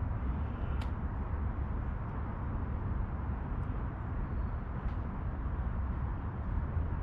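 Wind buffeting the microphone: a steady, flickering low rumble, with a faint click about a second in.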